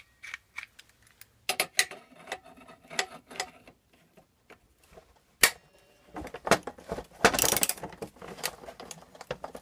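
Hand tools working a steel gear puller's forcing screw against a seized pulley on a small-engine crankshaft: irregular sharp metal clicks and ratcheting, one loud click about five seconds in, and a denser grinding rattle about seven seconds in.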